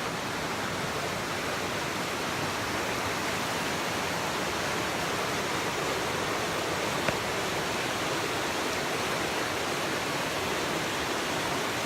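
Canyon river rushing: a steady, even wash of water noise.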